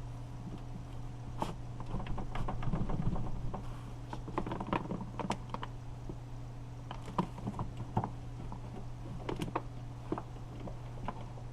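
Irregular light clicks and taps of hands and tools working on the inside of a car door, over a steady low hum.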